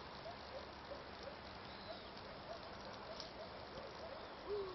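Faint outdoor night ambience: insects, crickets, chirping in short repeated calls over a steady background hiss.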